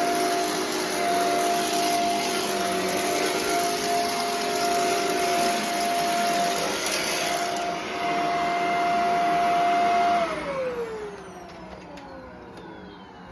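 Shark Rotator Professional NV650 upright vacuum running with a steady whine, its suction restored now that the sock clog is cleared from the hose. About ten seconds in it is switched off and the motor spins down, the whine falling in pitch as it fades.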